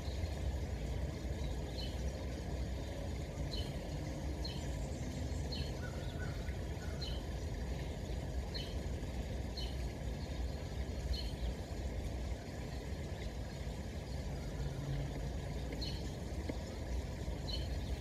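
A small bird giving short, high chirps, about one a second with a pause of a few seconds late on, over a steady low rumble.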